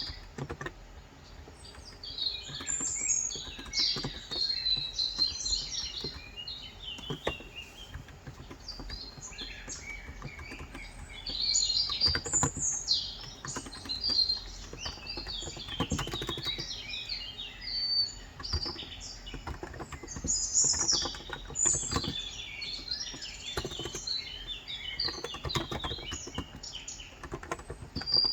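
Several small birds chirping and twittering continuously, many quick high calls overlapping, with scattered soft keystrokes from an electrostatic capacitive keyboard (Cox Endeavor, 35 g switches).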